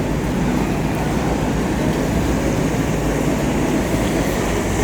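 Steady low engine rumble over a wash of outdoor noise, with no sudden events.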